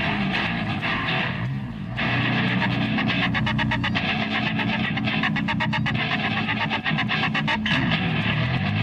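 Heavy funk-metal rock backing track with no drums: busy slapped electric bass and distorted electric guitar, with a brief drop about a second and a half in and sliding bass notes near the end.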